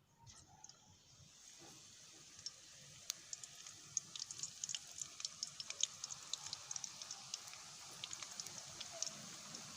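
Chicken wontons frying in hot oil: a steady sizzle with many crackling pops, building up over the first couple of seconds.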